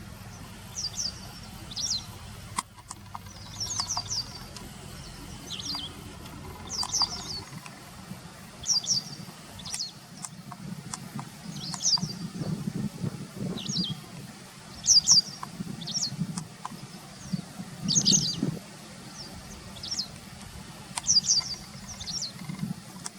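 Wagtail calls: short, sharp high chirps, often in pairs, repeated every one to two seconds over a low steady rumble.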